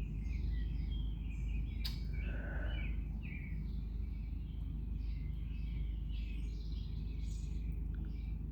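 Small birds chirping and calling, many short overlapping chirps, over a steady low background rumble; one sharp click about two seconds in.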